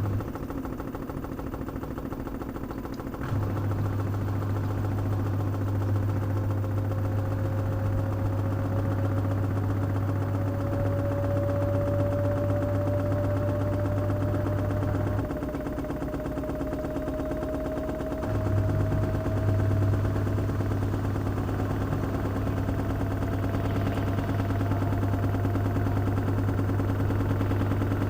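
LG washing machine spinning a load of wet towels, its motor whine rising slowly in pitch as the drum gathers speed. A low hum runs under it and cuts out twice, briefly near the start and for a few seconds around the middle.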